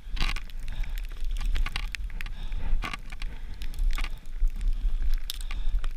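Wind buffeting the microphone in a steady low rumble, with irregular sharp crunches and snaps, several a second, from someone moving through snowy woods.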